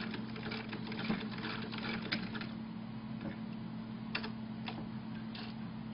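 Sewing machine mechanism clicking irregularly, densest in the first two and a half seconds, then a few scattered clicks, over a steady low hum.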